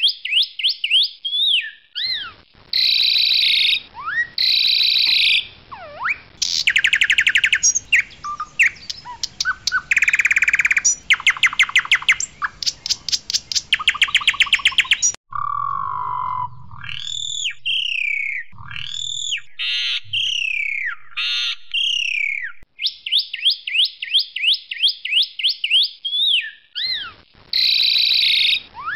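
Asian pied starling (jalak suren, white variant) singing loudly. It runs through rapid repeated chattering notes and fast rattling trills, then a run of looping whistles that rise and fall, and the quick repeated notes come back near the end.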